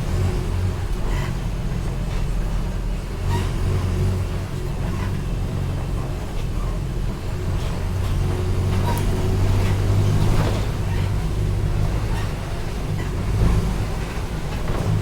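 Mercedes-Benz OF-1722M city bus running with a steady low diesel drone that swells between about eight and eleven seconds in, with scattered rattles and knocks.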